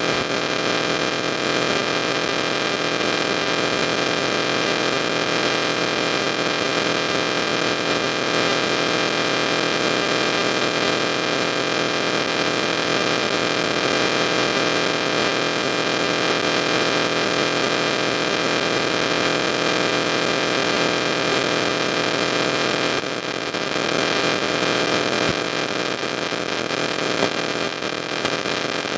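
Loud, steady hum and hiss with several steady tones, like electrical noise on the recording, dipping briefly near the end.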